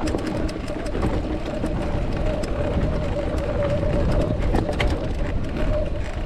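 Electric mountain bike ridden along a dirt trail: low tyre and wind rumble with scattered clicks of grit and stones, and a steady motor whine throughout.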